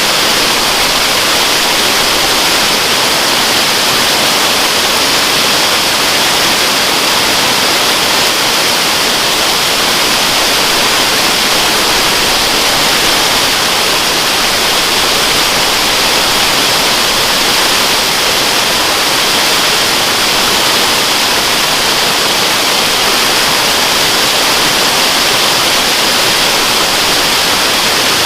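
Waterfall rushing in a steady, even hiss, its sound strongest in the high range, with no change.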